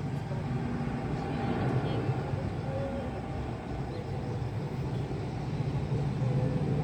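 Steady low rumble of a distant jet airliner's engines.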